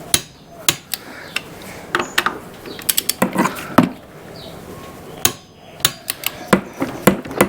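Ratchet torque wrench set to 25 N·m working on the Vespa GTS250ie's front wheel nuts: the ratchet clicks and the wrench gives sharp clicks at irregular intervals as each nut is brought up to torque.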